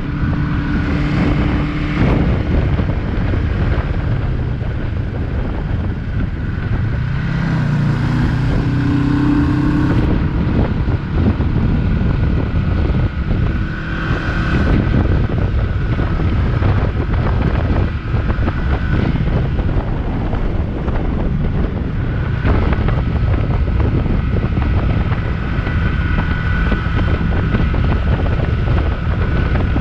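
Yamaha XS400 motorcycle's air-cooled parallel-twin engine running under way, its note climbing briefly about eight seconds in, with wind buffeting the rider's microphone.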